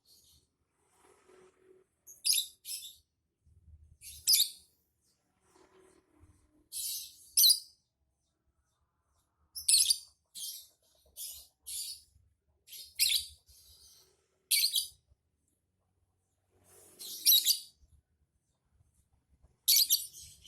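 Lovebird calling in short, shrill, high-pitched chirps, a dozen or so bursts at irregular intervals with pauses between.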